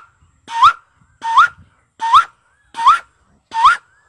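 A man imitating the call of a white-breasted waterhen (dahuk): a short rising note repeated steadily, about every three-quarters of a second, five times.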